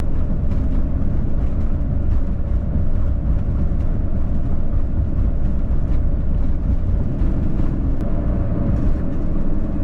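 A car driving at steady speed: continuous, even road and engine noise.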